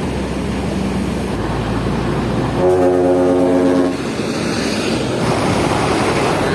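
Hino FL 260 JT truck's diesel engine running steadily, with one horn blast about three seconds in, held at a steady pitch for just over a second.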